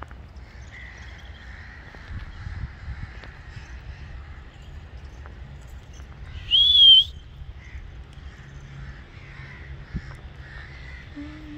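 A single loud bird call about halfway through, one short high note that wavers in pitch, over faint scattered birdsong and a low steady rumble.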